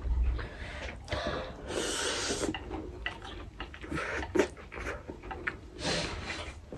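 Close-up eating of spicy buldak noodles: irregular slurping and chewing noises with a few sharp clicks in between.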